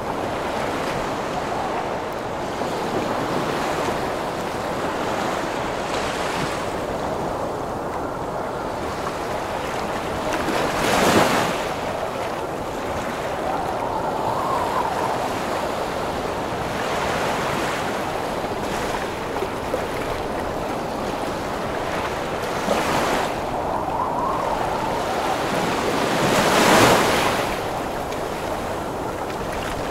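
Heavy ocean waves surging and breaking against a steady rush of gusting wind, with two bigger waves crashing louder, one about a third of the way in and one near the end.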